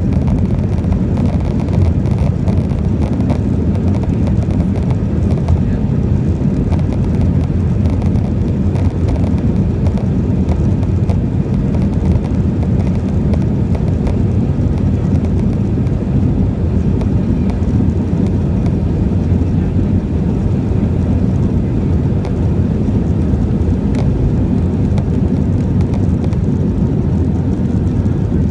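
Jet airliner's engines running loud and steady during takeoff, heard from inside the passenger cabin as a deep, even noise.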